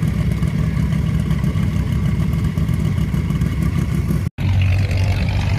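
Car engine running at low speed with a steady low rumble. About four seconds in the sound cuts out for an instant, then a different engine tone carries on.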